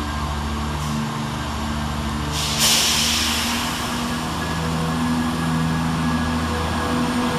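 Scotrail Class 170 Turbostar diesel multiple unit pulling away, its underfloor diesel engines running with a steady hum that builds slightly. About two and a half seconds in comes a short, sharp hiss of released air.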